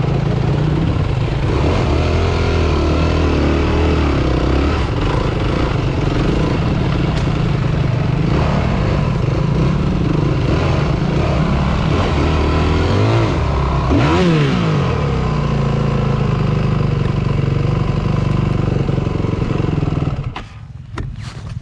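Four-stroke dirt bike engine running hard, its pitch rising and falling with the throttle, with a quick rev up and back down about fourteen seconds in. The engine sound drops away sharply about twenty seconds in.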